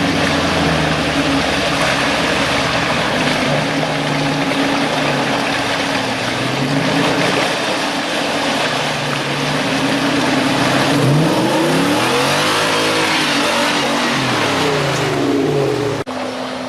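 Off-road vehicle engine revving hard, its pitch rising and falling again and again over a loud rushing noise of spinning tyres and terrain. About sixteen seconds in the sound cuts off abruptly to a quieter, steadier engine hum.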